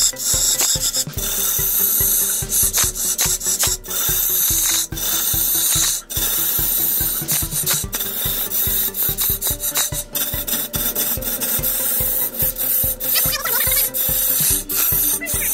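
A turning tool cutting wood on a lathe, a steady rasping hiss, with rapid, regular low thumps beneath it, about four or five a second.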